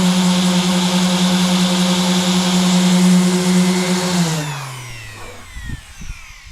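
Electric sander running steadily at full speed, then switched off about four seconds in, its motor whine falling in pitch as it spins down. A few faint knocks follow.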